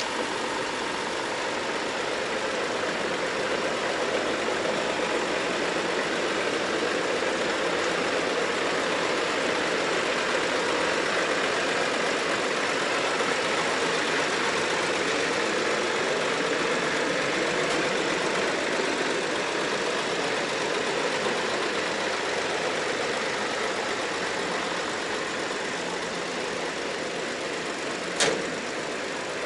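Iveco Eurotech 240 E 42 truck's six-cylinder diesel engine idling steadily, with a single sharp click near the end.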